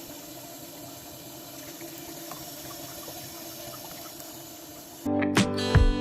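Water running steadily. About five seconds in, acoustic guitar music cuts in suddenly.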